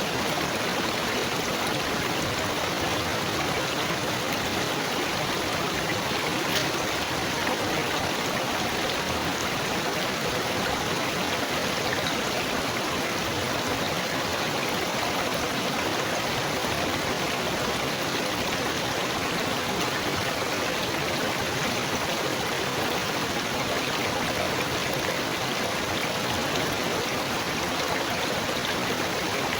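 Small stream of water trickling and babbling steadily, an even rush with no pauses and one faint click partway through.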